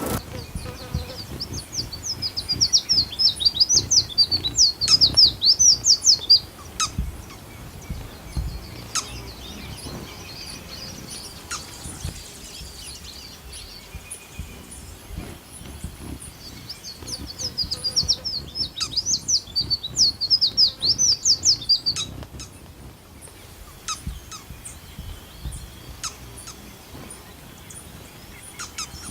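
A bird singing two long songs of rapid, high chirps, one starting just after the beginning and the other a little past the middle, with a few scattered single call notes between them.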